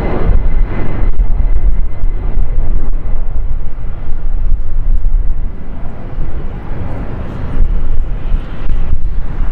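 Jet airliner engines rumbling loudly as the aircraft passes near the runway, a deep uneven roar; a thin high engine whine fades out in the first second.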